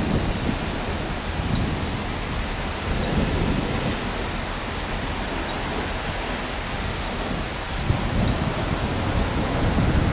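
Steady rain hiss, with an irregular low rumble swelling and fading underneath.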